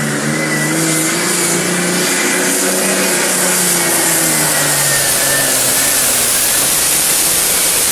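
Competition pulling tractor's engine running flat out under load on a pull, a loud steady drone whose pitch wavers and sags slightly partway through.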